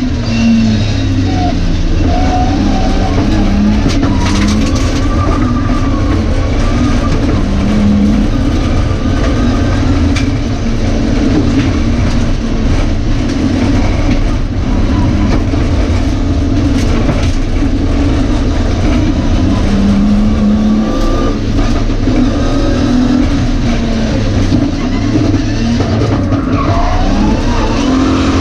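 BMW E30 rally car's engine revving hard at stage pace, heard from inside the cabin, its revs rising and dropping again and again over constant road and drivetrain noise.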